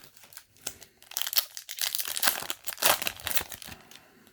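Foil booster pack wrapper crinkling in a dense run of sharp crackles, loudest from about one to three and a half seconds in.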